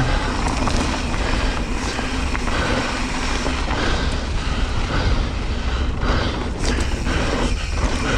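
Wind buffeting the microphone and knobby mountain-bike tyres rolling fast over a dry dirt trail, a steady rushing noise with a few knocks from the bike over bumps later on.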